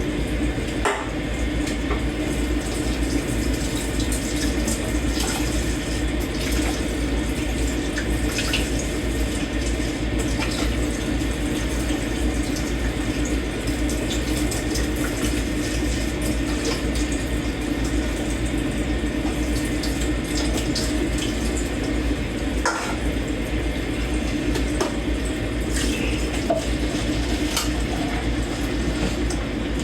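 Kitchen tap running into a sink while dishes are washed by hand, with scattered light clinks of dishes and cutlery.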